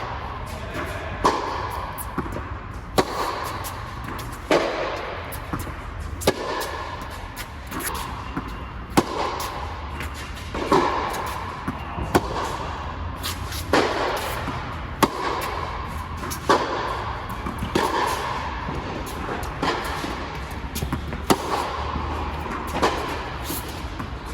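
Tennis rally: the ball struck by racquets, one of them an 18x19-strung Yonex Percept 100D, and bouncing on court, with a sharp pop about every second and a half.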